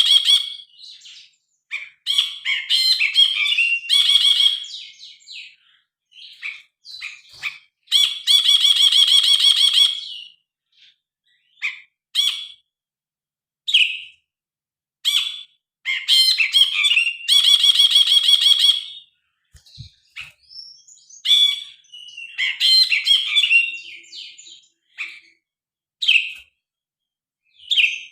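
Brinji kelabu bulbul singing loudly: a varied run of short whistled notes and chattering phrases, broken twice by long harsh rattling calls of about two seconds each, roughly eight and seventeen seconds in.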